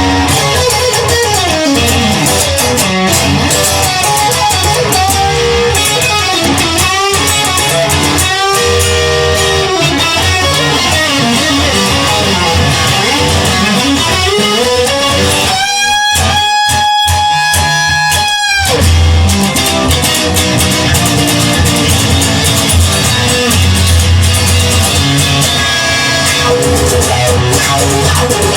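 Instrumental rock music led by electric guitar, with notes sliding and bending up and down over a steady bass line. About halfway through, one long guitar note is held for roughly three seconds.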